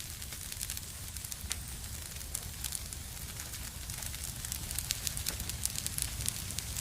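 Wood fire in a fireplace crackling: many small sharp pops and snaps over a low steady rumble of the flames, the pops getting a little more frequent and louder about two-thirds of the way through.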